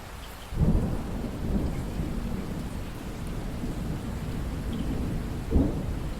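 Steady rain with thunder: a sudden low rumble breaks in about half a second in and rolls on, with a second sharp crack near the end.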